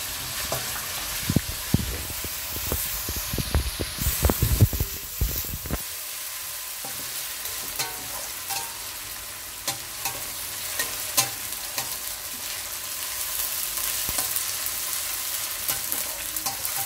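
Browned onions and freshly added ginger-garlic paste sizzling in hot ghee in a stainless steel kadhai, stirred with a metal spatula. For the first six seconds or so the stirring is heavy, with thumps and knocks against the pan. After that the sizzle runs steadily with scattered clicks of the spatula on the steel.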